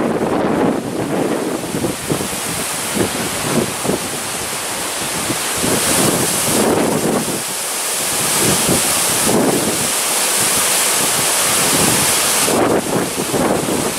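Strong, gusty storm wind buffeting the microphone, loud throughout with irregular surges and a high rushing hiss that swells and eases over a few seconds.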